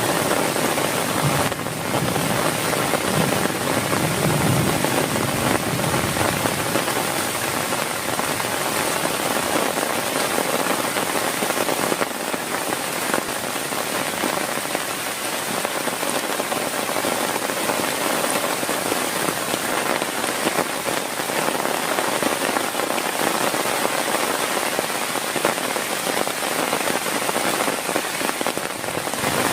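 Heavy rain falling steadily: a dense, even hiss of drops that holds at the same level throughout.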